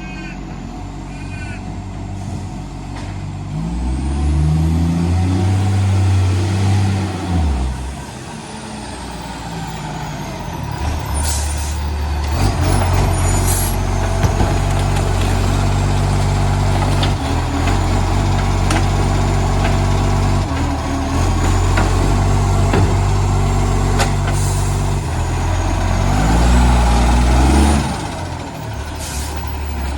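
Garbage truck's diesel engine revving up and dropping back, then running steadily and revving again near the end, with the rough note of a massive exhaust leak. A short sharp hiss, like an air brake releasing, comes about eleven seconds in.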